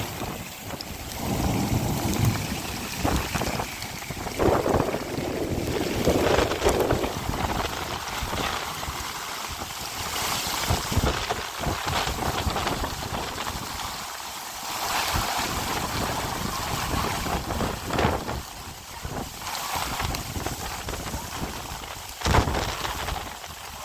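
Rain falling, with wind noise on the microphone and occasional knocks, the sharpest one near the end.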